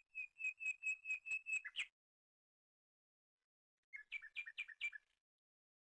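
A bird calling: a quick run of about eight sharp, repeated whistled notes ending in a harsher note. After a pause of about two seconds comes a second, shorter run of five notes.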